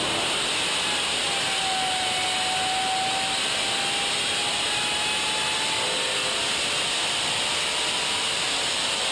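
Steady hissing rush of road and wind noise from a moving vehicle. A faint, slightly drifting whine runs through it for several seconds, starting about a second in.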